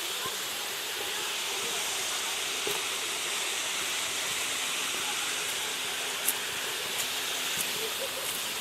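Steady rushing of a waterfall, with a few sharp clicks in the second half.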